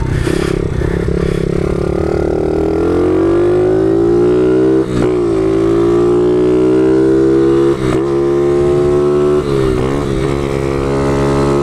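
Small pitbike engine running hard as it is ridden, its pitch climbing steadily for a few seconds, then dropping briefly and picking up again a few times.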